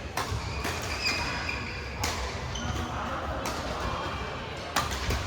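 Badminton play on an indoor court: a few sharp racket hits on the shuttlecock, one near the start, one about two seconds in and two near the end, with short high squeaks of shoes on the court floor and faint voices.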